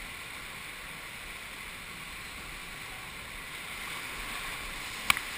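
River water rushing steadily past a raft, with a single sharp click near the end.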